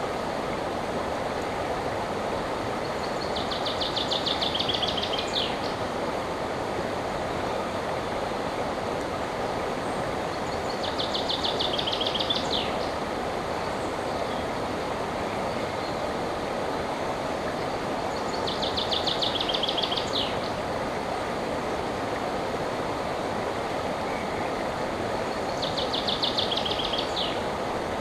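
River water flowing with a steady rush, and a songbird repeating a short, rapid trilled phrase four times, about every seven seconds.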